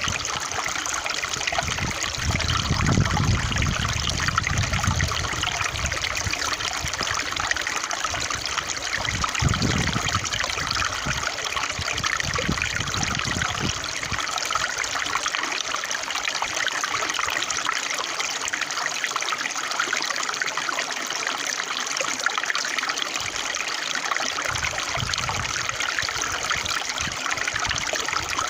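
Flowing water trickling steadily, with a few brief low rumbles in the first half.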